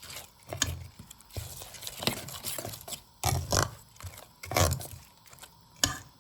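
Thick yogurt-based tandoori marinade with ground fried onion being mixed in a bowl, in irregular strokes, with a sharp click near the end.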